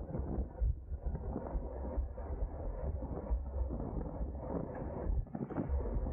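Wind buffeting the microphone and road noise from a road bike ridden at race speed: a steady, low, muffled rumble.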